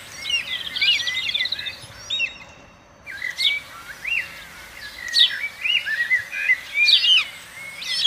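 Small birds chirping and twittering: a steady run of short, quick up-and-down calls, with a rapid trill about a second in and again at the end, and a brief lull just before the middle.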